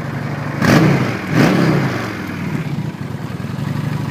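Honda Shadow 750 Phantom's 745cc fuel-injected V-twin idling, blipped twice on the throttle about half a second and a second and a half in, each rev falling back to a steady idle.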